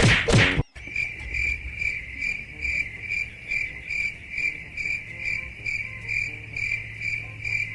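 Cricket chirping in a steady, even rhythm of about two to three chirps a second, over a low hum. It starts just after a loud sound that cuts off in the first second.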